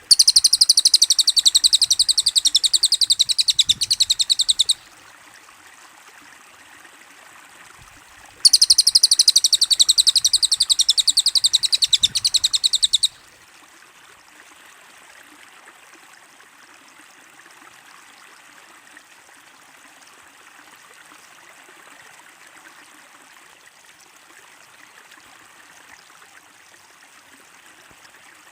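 Sped-up recording of cililin bird song: two bursts of very rapid, high-pitched trilling, each about four and a half seconds long and a few seconds apart. A steady hiss like running water continues under and after them.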